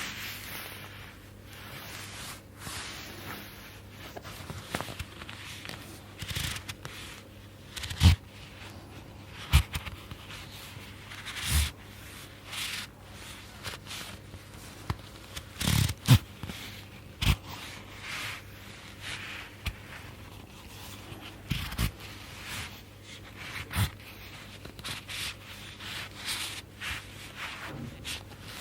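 Close-miked oil massage sounds: slick hand strokes rubbing over oiled skin, mixed with fabric rustling and scraping. A handful of sudden, louder sharp pops and taps stand out at irregular moments.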